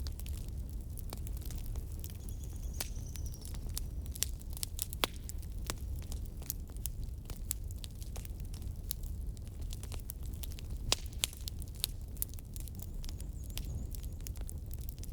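Wood fire burning, crackling with many irregular sharp pops over a steady low rumble.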